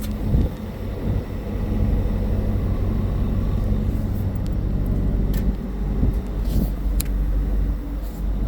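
A vehicle engine running steadily at idle, a low even hum with a few sharp clicks about five and seven seconds in.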